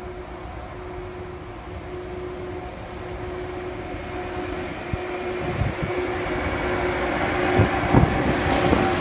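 A train approaching and growing steadily louder, with a steady hum under a rising rush, and wheels knocking on the rails from about halfway through.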